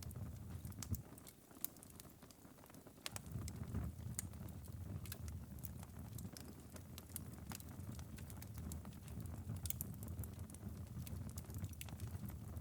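Wood fire's glowing ember bed in a fireplace crackling late in the burn: scattered sharp pops and ticks over a low, steady rumble. The rumble drops away about a second in and comes back near three seconds.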